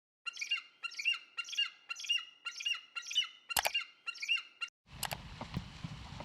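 A bird squawking over and over, about two harsh pitched calls a second, with a sharp click partway through. About five seconds in the calls stop and give way to a steady low rumbling noise with a couple of knocks.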